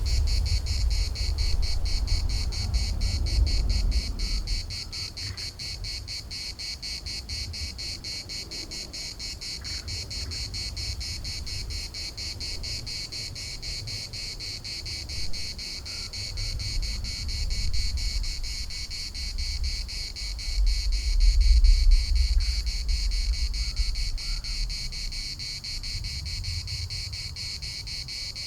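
A chorus of cicadas buzzing steadily, a high, rapidly pulsing drone. Low wind rumble on the microphone swells at the start and again about two-thirds of the way through.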